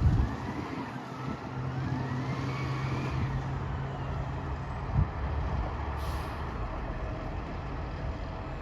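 Garbage truck running at the curb, its engine note held up with a rising whine for a few seconds, then a thump about five seconds in and a short burst of air-brake hiss just after.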